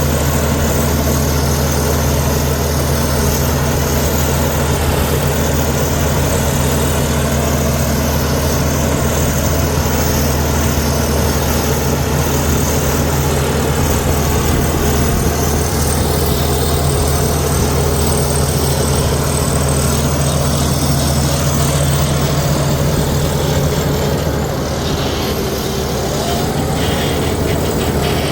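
Komatsu D61EX bulldozer's diesel engine running with a steady low hum at an even engine speed, easing off slightly near the end.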